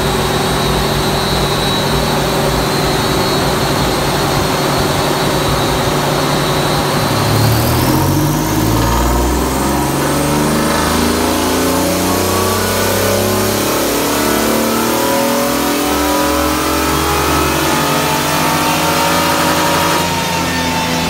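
Modified Ford's engine running under load on a chassis dynamometer for a power run. It holds steady for about seven seconds, then pulls up through the revs, its pitch climbing steadily, and eases off about twenty seconds in.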